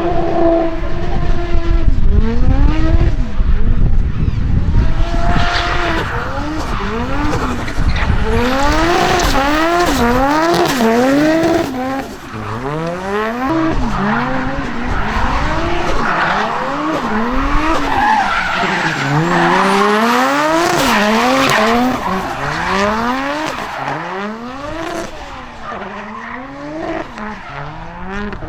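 Drift car engines revving hard, the pitch rising and falling over and over as the throttle is worked through the slide, with tyre squeal from the sliding tyres.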